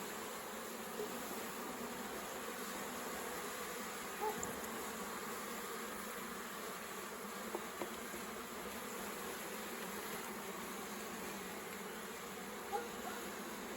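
Honey bees of an open hive buzzing steadily as a colony, with a few faint knocks as the frames are handled.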